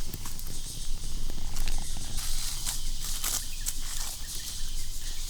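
Footsteps crackling through dry leaf litter and twigs on the forest floor, with irregular sharp snaps, over a steady high hiss of forest insects.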